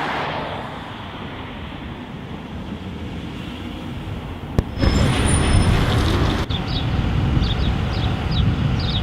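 Outdoor background rumble like road traffic, growing louder after a sharp click about halfway through. Short high chirps repeat over it near the end.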